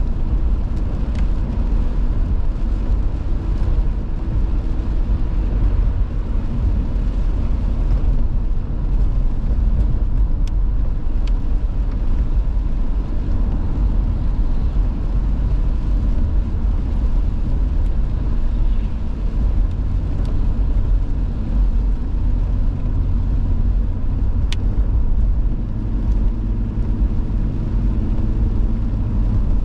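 Steady low rumble of a car driving, road and engine noise heard from inside the cabin, with a couple of faint clicks.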